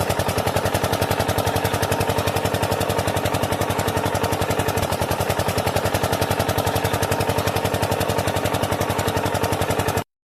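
Engine chugging steadily at idle, an even run of pulses several times a second, cutting off suddenly near the end.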